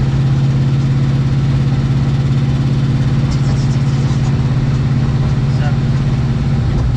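Car engine and exhaust running at a steady cruise with a constant low drone, rising in pitch near the end as it speeds up. The engine has a leaking exhaust header gasket, which the owner says can still be heard on this ride.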